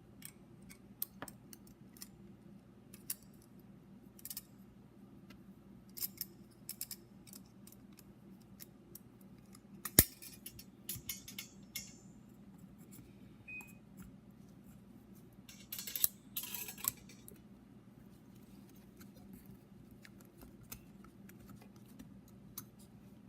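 Light metallic clicks, ticks and scrapes of a piston ring being worked by hand onto a piston and into its groove, with one sharp click about ten seconds in and a short run of scraping around sixteen seconds in. A faint steady hum sits underneath.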